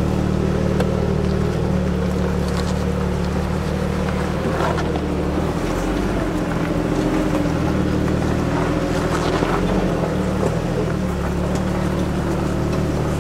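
Jeep engine running at low rock-crawling speed, a steady low drone whose note shifts a couple of times with the throttle, heard from inside the Jeep's cab.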